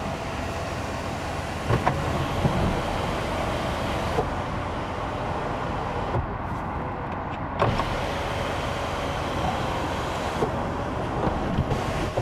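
Electric motor of the 2020 Hyundai Sonata's panoramic sunroof running steadily as the roof or its sunshade power-opens, with a few light clicks along the way.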